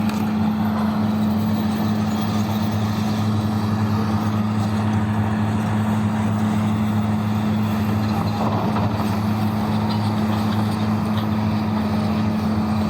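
Diesel engine of heavy open-pit mining machinery running steadily, a low even drone with no change in speed.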